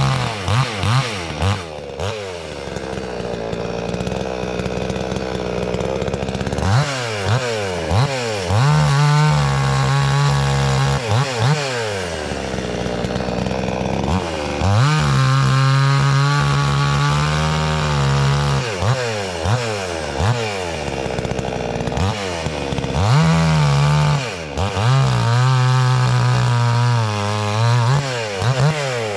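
Two-stroke gas chainsaw cutting logs in repeated bursts: the throttle is blipped, then held wide open for a few seconds at a time through each cut, dropping back between cuts.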